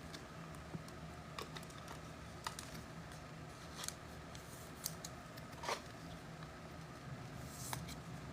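Faint, scattered light clicks and rustles of trading cards and packs being handled, a few short ticks spaced about a second apart.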